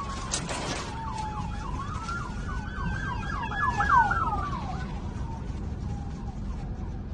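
Emergency vehicle siren wailing: its pitch climbs and then falls away, with a run of quick yelping sweeps through the middle, over a steady low rumble.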